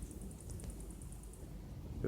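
Faint, steady low rumble of V-22 Osprey tiltrotor aircraft passing at a distance. A rapid high ticking, about eight ticks a second, runs over it and stops about a second and a half in.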